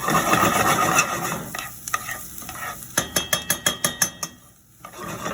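Rice, onion, garlic and ginger sizzling in hot oil in a pan as they are stirred and toasted. About three seconds in comes a quick run of sharp taps and scrapes of the stirring utensil against the pan.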